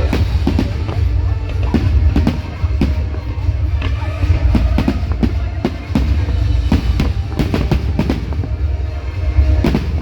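Fireworks display: a rapid, irregular string of loud bangs and crackles, several a second, over a heavy low rumble, with music playing underneath.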